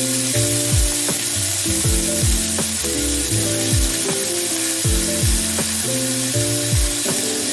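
Sliced onions sizzling as they are tipped by hand into hot oil in a frying pan, over background music with a steady electronic beat about twice a second.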